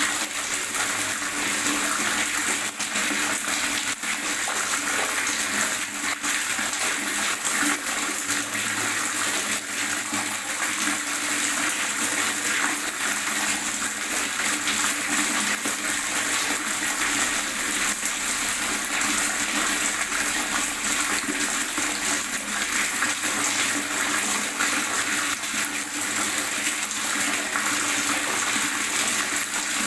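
Water gurgling in a steady, unbroken rush with no pauses.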